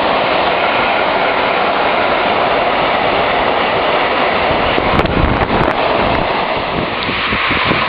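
Freight train of empty flat wagons rolling past on the main line, a loud steady rushing of wheels on rail. About five seconds in comes a short cluster of low thumps and sharp clicks.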